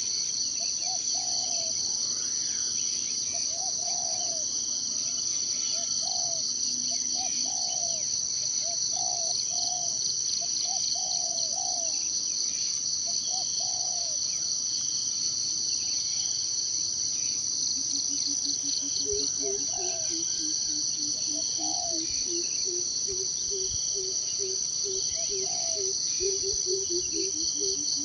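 Steady, high-pitched insect chorus, with short low bird calls repeating through it; about two-thirds of the way in, a quick run of lower notes joins, rising and falling in pitch.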